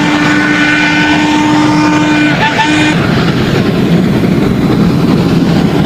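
Train sound effect: a locomotive horn gives one long blast and then a short toot over a loud, steady rumbling noise.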